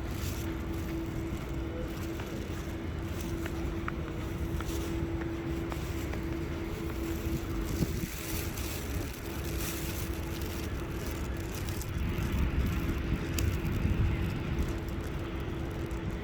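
Outdoor street background: a low traffic rumble with a steady hum.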